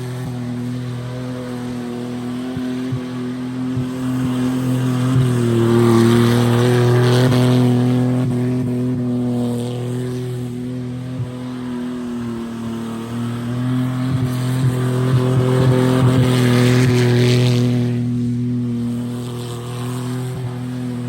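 Car engine running hard at steady high revs, with two louder swells of rushing noise, about six seconds in and again about fifteen seconds in.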